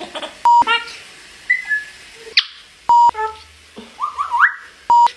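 African grey parrot calling and whistling in short bursts, with rising and falling whistled notes. Three short, flat beeps cut in, about 0.5 s, 3 s and 5 s in, typical of censor bleeps laid over swearing.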